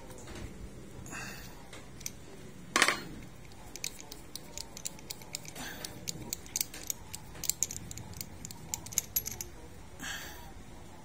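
Metal tool clinks and irregular small clicks as a spark plug wrench is worked to take out a motorcycle's spark plug, with one sharp louder clack about three seconds in.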